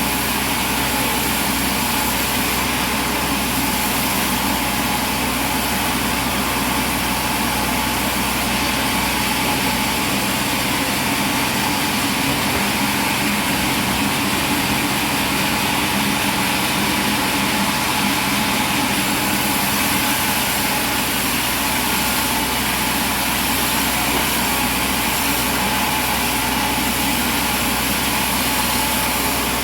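Machinery running steadily at an even level, a dense engine-like noise with a constant hum and no breaks.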